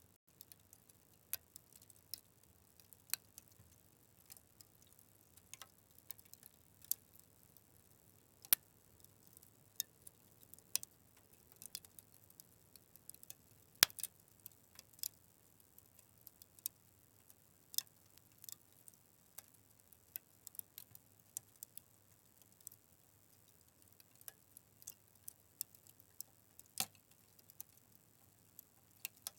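Fire crackling: irregular sharp pops and snaps over a faint hiss, a few of them much louder than the rest, the strongest about halfway through.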